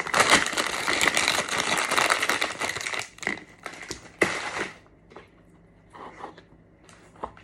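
Plastic bag of frozen mixed vegetables crinkling and rustling as a portion is taken out. It is dense for about three seconds, then comes in a few separate rustles and stops about five seconds in.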